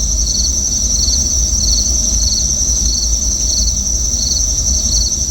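Insects calling: one high, steady, unbroken trill with a second insect's pulsed call just below it, about two pulses a second. A steady low rumble runs underneath.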